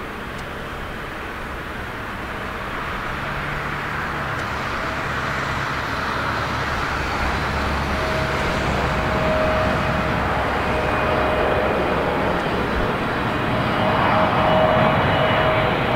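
Jet airliner on final approach, its engine noise growing steadily louder as it comes nearer, with a thin steady whine coming in about halfway.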